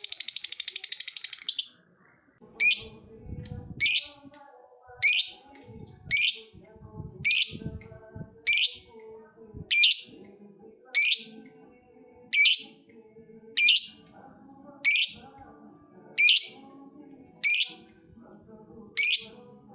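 Lovebird calling: a fast chattering trill that breaks off about two seconds in, then loud, sharp single calls repeated about once every second and a quarter.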